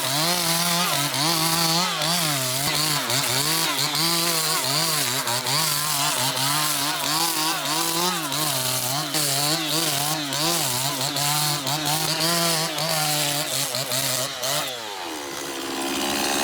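Motor-driven log peeling and planing tool running at high speed, stripping a log, its pitch wavering up and down with a rasping edge. Near the end the revs fall away and the sound eases off.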